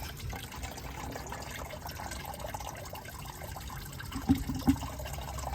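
Engine coolant running out of a 2003 Nissan Xterra's radiator in a steady stream, with the radiator cap off so it drains freely.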